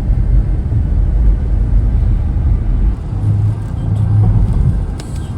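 A car on the road: a steady, loud low rumble, with a deeper hum swelling from about three seconds in.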